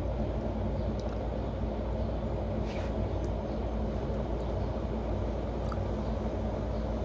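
A steady low mechanical rumble with a faint hum, marked by a few faint short clicks.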